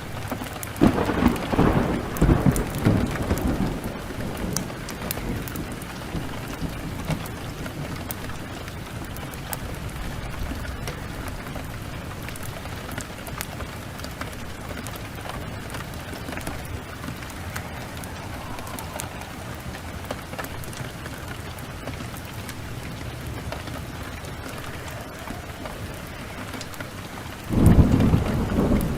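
Steady rain with two rolls of thunder, one starting about a second in and lasting a couple of seconds, another near the end. Small sharp pops of a crackling wood fire sound over the rain.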